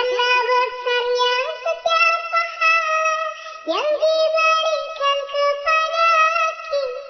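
High-pitched, sped-up cartoon singing voice performing a shalawat, an Islamic devotional song, in held and sliding notes, with a quick upward swoop about four seconds in.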